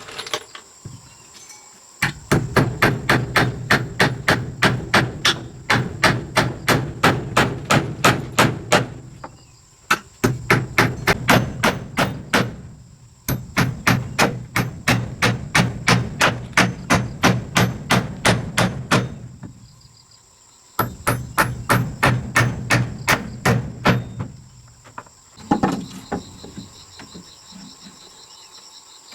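Rapid repeated hammer blows, about four a second, in four runs separated by short pauses, with crickets chirping steadily behind.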